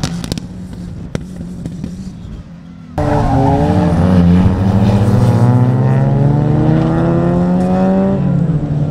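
Track-day cars' engines. For the first three seconds a car passes at moderate level; then a much louder engine note comes in suddenly and climbs steadily in pitch as a car accelerates hard, easing slightly near the end.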